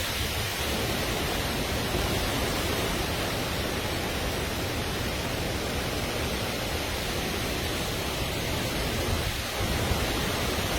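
Damaging storm winds blowing steadily, a dense even rush of noise.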